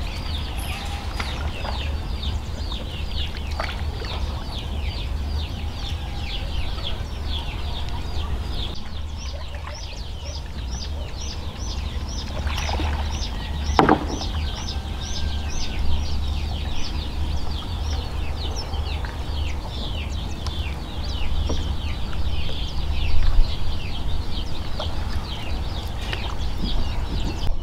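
Birds cheeping rapidly and without pause: many short, high, falling chirps several times a second, over a steady low rumble. A single short louder sound stands out about halfway through.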